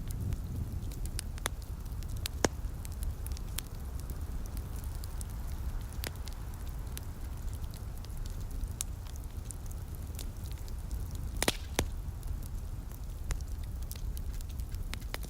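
Wood fire crackling, with scattered sharp clicks and a few louder pops about two and a half seconds in and twice close together near eleven and a half seconds, over a steady low rumble.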